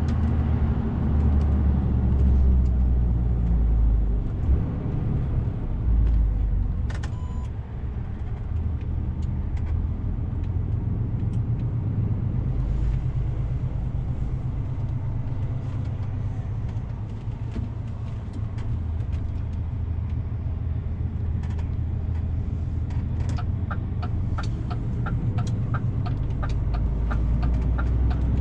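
DAF CF 450 truck's diesel engine running under way, a low drone that swells and eases with the throttle. There is a brief beep about seven seconds in. Near the end the turn-signal indicator ticks steadily, about two a second.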